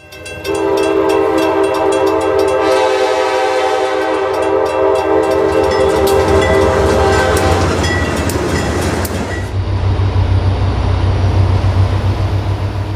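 Train horn sounding one long, steady chord for about seven seconds, followed by the train running past with a low rumble and rail noise.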